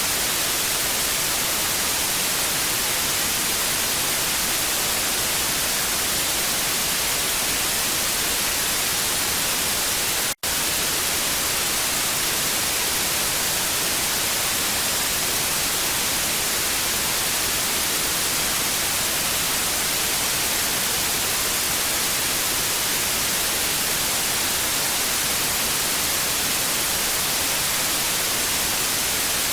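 TV static: a steady, even hiss, strongest in the treble, broken once by a split-second dropout to silence about ten seconds in.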